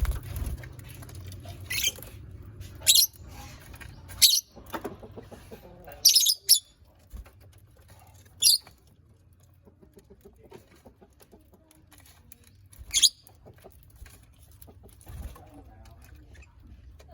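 Lovebirds giving short, shrill chirps, about seven scattered calls, with faint ticking and rustling between them.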